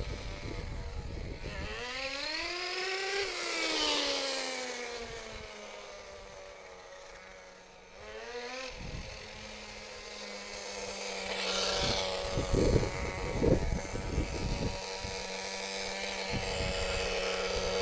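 Nitro RC truck's small .15 two-stroke glow engine revving up to a peak and falling away as the truck runs off, a second short rev about eight seconds in, then a steady high-pitched drone. Low thumps at the start and again around twelve to fourteen seconds in.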